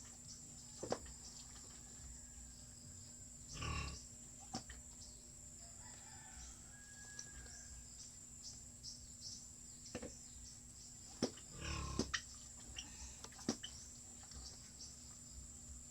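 Pigs grunting twice, each grunt short, amid scattered clicks and knocks, over a steady high-pitched insect-like drone.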